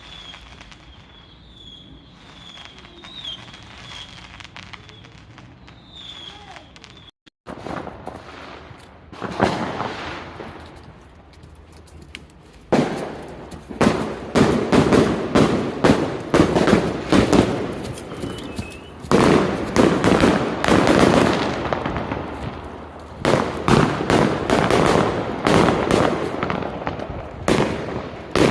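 Fireworks going off: a quieter stretch with a faint, repeated high chirp, then from about nine seconds in, repeated loud bangs and dense crackling bursts, several each few seconds.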